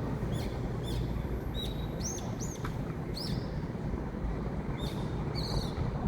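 Small birds chirping, a run of short high chirps repeating every half second or so, over a steady low rumble.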